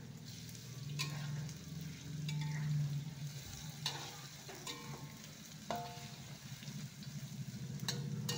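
Tofu sizzling as it fries in oil in a wok, while a metal spatula turns it and strikes the wok several times with short ringing clanks.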